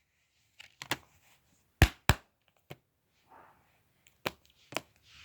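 Plastic DVD case and discs being handled: a few sharp clicks and knocks, the two loudest close together about two seconds in, with faint rustling between.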